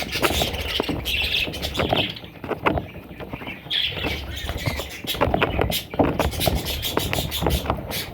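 Budgerigars chirping and squawking in short raspy calls, mixed with many small clicks and scratching sounds.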